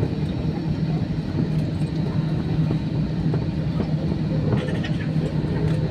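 Steady cabin noise inside an Airbus A320 airliner: a low, even rumble with a constant hum.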